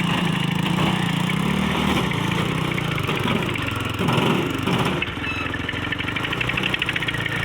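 A vehicle engine running steadily at a low idle, its pitch wavering for a couple of seconds in the middle.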